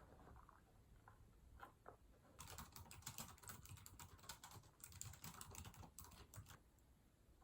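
Faint, rapid light clicking and rattling, starting a couple of seconds in and stopping about a second before the end.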